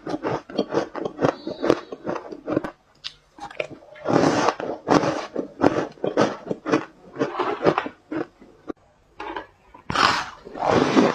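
Ice being bitten and crunched between teeth: a run of crackly crunches, with two short pauses between bites.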